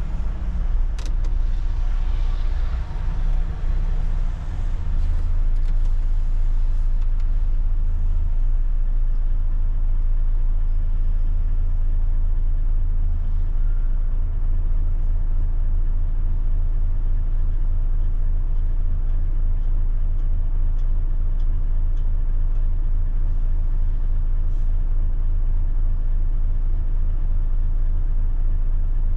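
Large diesel engine running steadily with a low rumble, which settles into an even, fast pulse about eight seconds in.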